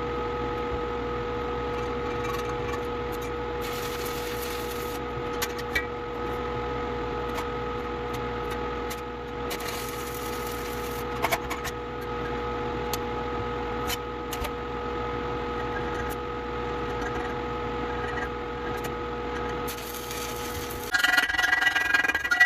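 Stick (shielded metal arc) welding on black iron pipe: a steady hissing crackle over a constant hum, with scattered sharp clicks. Music comes in near the end.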